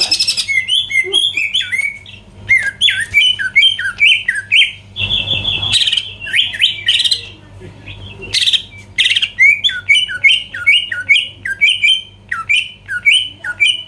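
Cucak ijo (green leafbird) singing a fast, continuous song of short whistled notes that slide down in pitch, broken several times by loud, harsh chattering bursts.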